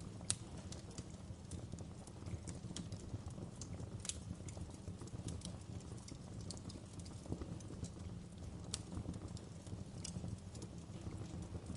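Wood fire burning in a fireplace: a low steady rumble of flames with irregular sharp crackles and pops from the logs, one louder pop about a third of a second in.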